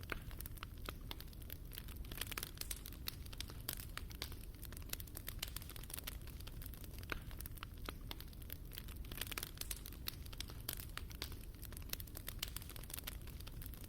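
Fire burning in a fireplace: dense, irregular crackles and pops over a low steady rumble.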